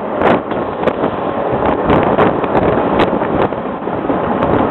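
Bernina Express train running, heard from inside the carriage: a loud steady noise of wheels on rails, with irregular sharp clicks and knocks through it.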